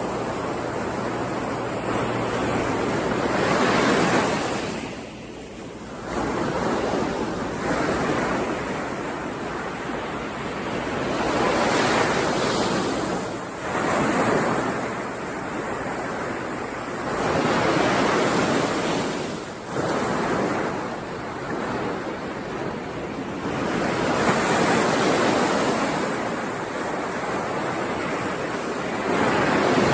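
Sea waves breaking and washing in, swelling and falling back in repeated surges about every five to seven seconds.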